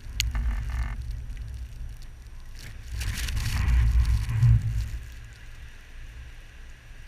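Blizzard wind buffeting the microphone in a deep rumble, swelling into a stronger gust with a rush of hiss about three seconds in and easing off about two seconds later.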